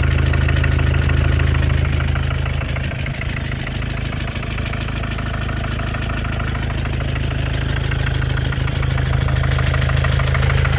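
Mercedes-Benz OM651 four-cylinder diesel idling, with a quick, steady ticking knock from the top of the engine, as if someone were tapping with a little hammer. The owner takes it for a harmless-seeming knock whose cause he has not found.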